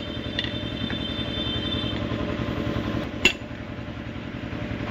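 Metal clinks from hand tools on engine parts during a diesel engine teardown. A high ringing metallic tone lasts for about the first two seconds, and a single sharp clink comes about three seconds in. Under them runs a steady idling engine hum.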